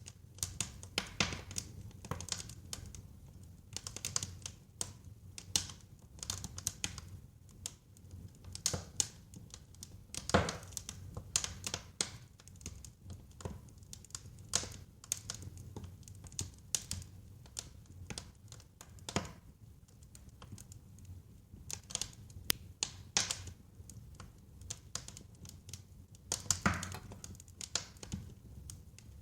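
Wood fire crackling in a fireplace: a steady stream of irregular snaps and pops over a low rumble, with a few louder pops.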